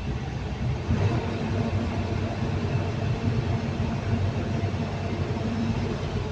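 Caterpillar 320D2 L excavator's diesel engine running steadily. The machine has a low-power fault, with its engine speed sagging under load.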